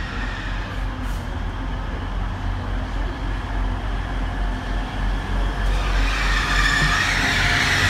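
A Hull Trains Class 180 diesel multiple unit running into the platform, a steady low hum growing into a louder rush of wheels and running gear from about six seconds in as the front draws level.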